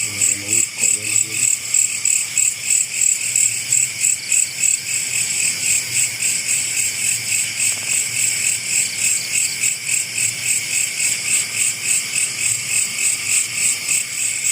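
Night insects chirping in a steady, high, pulsing chorus, about three or four pulses a second.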